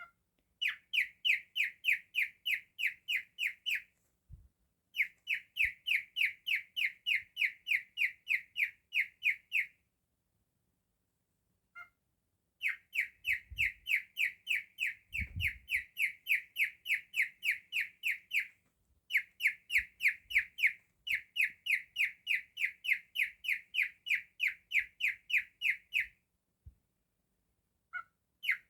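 Cockatiel chirping in rapid runs of short, identical calls, about four or five a second, each run lasting several seconds with brief pauses between. A couple of soft low thumps come about halfway through.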